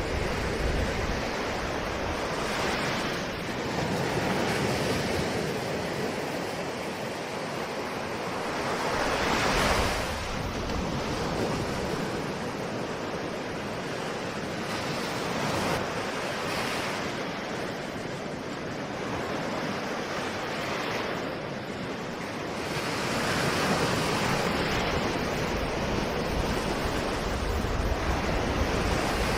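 Ocean waves breaking and washing on a shore, a continuous surf hiss that swells with each wave every few seconds, with some wind.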